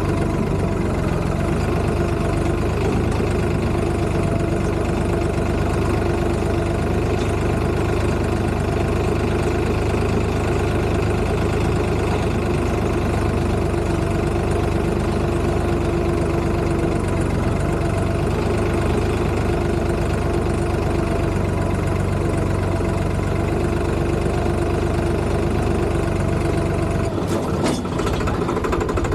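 Tractor diesel engine running steadily with a constant drone, with a few knocks near the end.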